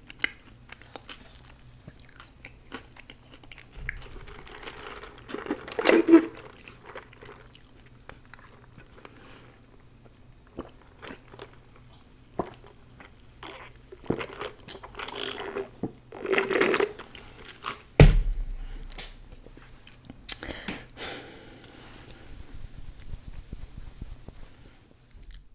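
Close-miked eating: chewing and crunching food, with scattered mouth clicks and several louder crunchy bites. A sharp knock with a low thud comes about two-thirds of the way through.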